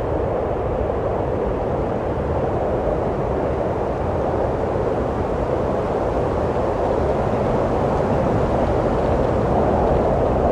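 Steady wind blowing, a low rushing noise that swells slightly near the end.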